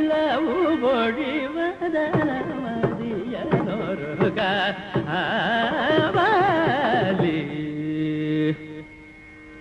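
Carnatic music in raga Mohanam: a melodic line with heavy oscillating ornaments over a steady drone. It settles onto held notes about three-quarters of the way in, then drops much quieter near the end.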